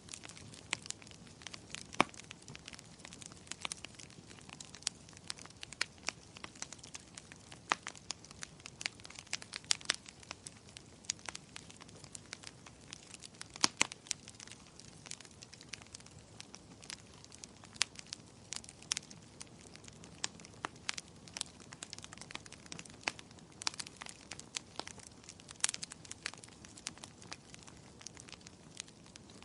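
Wood fire burning in a fireplace: a steady low hiss with frequent irregular crackles and pops, a few sharper snaps standing out.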